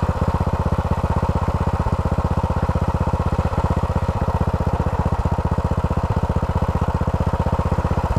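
1933 Moto Guzzi motorcycle engine idling after being kick-started, an even rapid beat of exhaust pulses.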